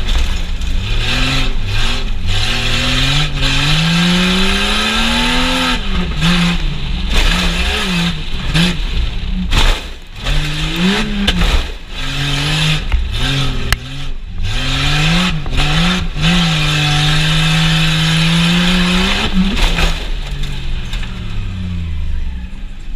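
Truck engine revving hard on a tough truck course, its pitch climbing and falling again and again as the throttle is worked, with rough rumbling noise over it and brief lifts off the gas about ten and twelve seconds in.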